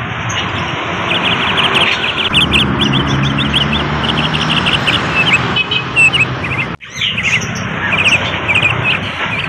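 Bali myna singing in several bursts of rapid chattering notes, over steady background noise. The sound cuts out briefly about seven seconds in.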